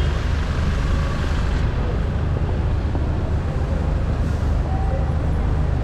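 Steady low rumble of vehicle noise under an even hiss, with no single event standing out.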